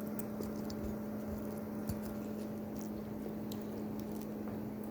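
Eating sounds: soft chewing and a few scattered light clicks, over a steady low hum.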